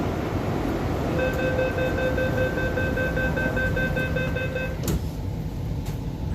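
MTR train's door-closing warning, a rapid steady beeping of about three to four beeps a second lasting roughly three and a half seconds, over the low rumble of the train. A sharp thud follows about five seconds in as the doors shut.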